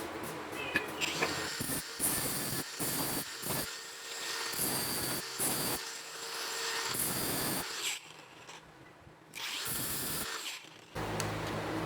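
A small power tool running in short, irregular bursts, starting and stopping several times, with a quiet pause for a second or so past the middle.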